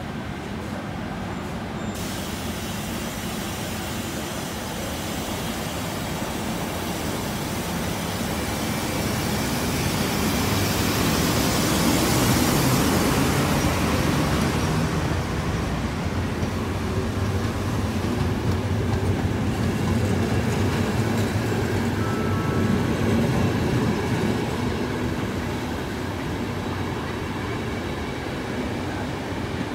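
Intercity train hauled by two electric locomotives, an E444R and an E402B, moving off and passing close. The steady rumble and hiss of the locomotives and wheels builds to its loudest about twelve seconds in as the locomotives go by, then the coaches roll past. A high hiss comes in suddenly about two seconds in.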